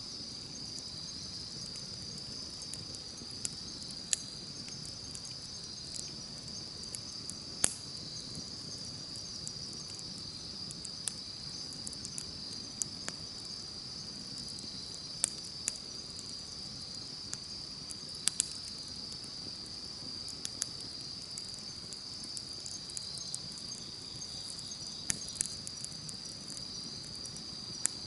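Campfire crackling and popping in sharp, irregular snaps over a steady high trill of insects singing.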